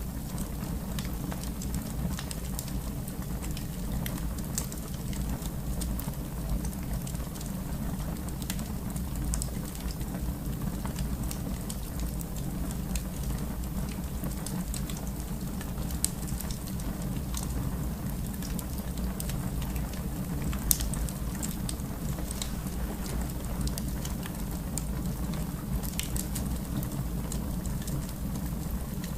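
Wood fire burning in a fireplace: a steady low rumble with scattered crackles and two sharper pops, about sixteen and twenty-one seconds in.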